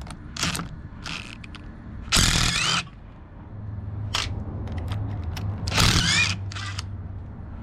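Ratchet wrench and socket being worked on the crankshaft bolt of a Copeland semi-hermetic compressor: scattered ratchet clicks and two longer metal-on-metal scraping bursts with a squeak in them, about two and six seconds in. A low steady hum sits underneath in the second half.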